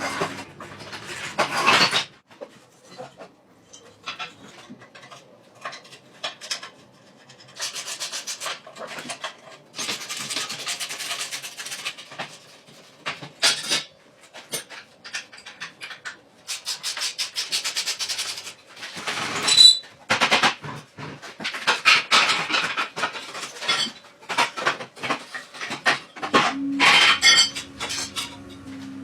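Irregular scraping and rubbing strokes, each lasting up to a second or so, mixed with scattered clicks and knocks.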